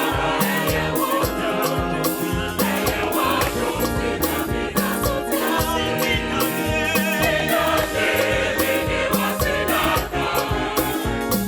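A gospel choir singing with band accompaniment and a steady drum beat.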